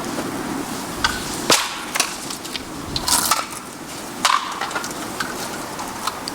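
Bamboo fire burning in a pail can, crackling steadily with sharp, irregular pops and cracks every half second to second.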